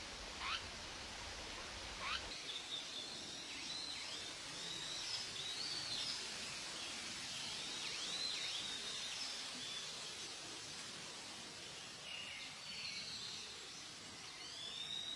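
Tali pocong birds giving repeated high chirps and short whistled notes, some bending up and down in pitch, with a few quick downward swept calls in the first two seconds and a lull in the calling past the middle, over a steady hiss of outdoor noise.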